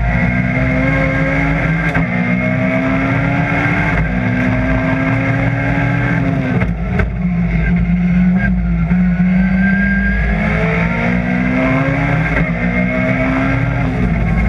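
Rally car engine at full throttle heard inside the cockpit, its pitch climbing and dropping back with each upshift, several times through the run.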